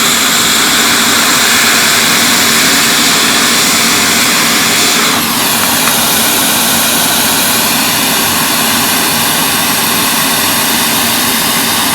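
Hot air rework station blowing a steady jet of hot air, a rushing hiss with a faint fan hum, as solder on a circuit board's USB connector is reflowed. About five seconds in its pitch drops and settles lower.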